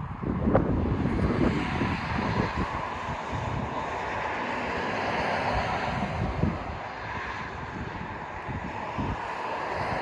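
Wind buffeting the microphone, under a steady rushing noise that swells about midway and again near the end.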